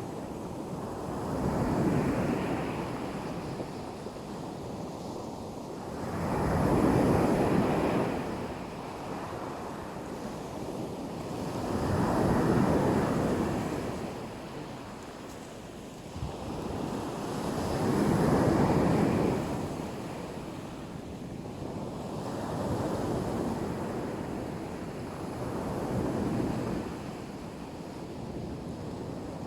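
Sea surf: waves breaking and washing onto the shore in six surges about five seconds apart, the strongest two near the second and fourth, with a steady wash between them.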